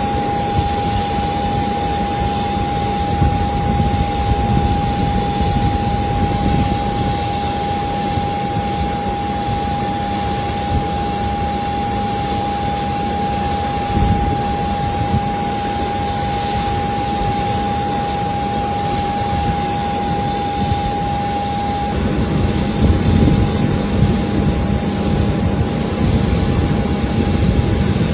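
Jet aircraft engine running: a steady rumble with a constant whine that drops away about two thirds of the way through, leaving the rumble, which swells a little louder after that.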